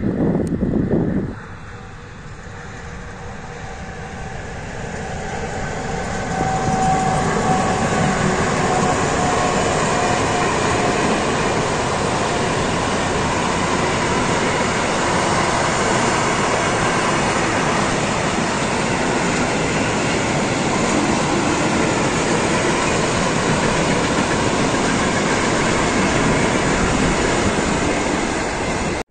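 Freight train of loaded open wagons rolling past close by, wheels clattering over the rail joints. The noise grows over the first few seconds as the train comes near, then holds at a steady loud level. A loud burst of wind on the microphone ends suddenly about a second in.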